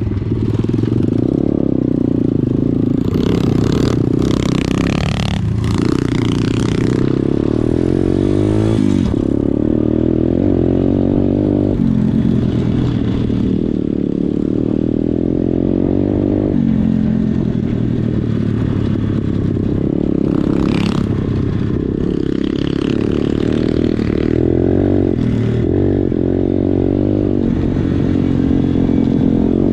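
Pit bike's single-cylinder engine running under way, its pitch rising and falling with the throttle. A few short bursts of rushing noise come through over the engine.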